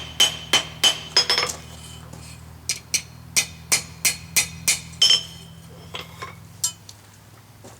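Hammer striking a steel bowl being shaped for a forged egg cooker, each blow ringing. A quick run of blows about three a second, a short pause, a second run, then a few lighter taps near the end.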